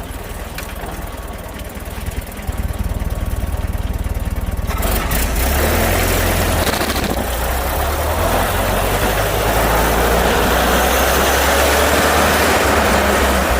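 1928 Ford Model A's four-cylinder engine running as the car is driven. The sound grows louder about five seconds in, with wind and road noise rising along with the engine drone.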